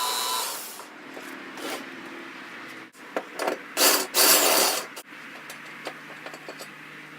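Metalworking shop noise in short edited segments: harsh hissing and crackling scraping with a low hum underneath, loudest in two bursts in the middle, and cut off abruptly several times.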